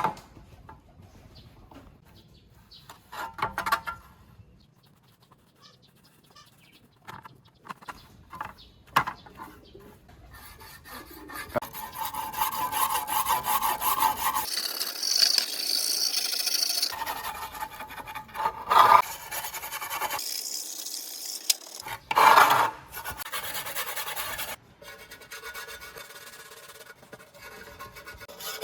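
Abrasive scraping and rubbing on rusty table-fan parts during rust removal, heard as a string of short clips of back-and-forth strokes that change texture abruptly, with a few louder sharp scrapes.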